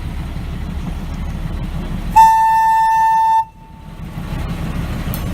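Narrow-gauge diesel locomotive's air horn sounding one steady single-note blast of about a second, over the running rumble of the train.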